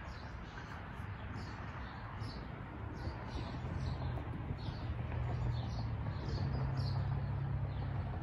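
A small bird chirping repeatedly, about twice a second, over steady highway traffic noise. A low engine drone builds up in the second half.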